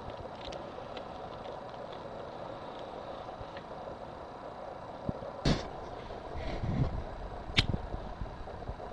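Steady background hum, broken by two sharp knocks or clicks, one about five and a half seconds in and one about seven and a half seconds in, with some low rustling between them.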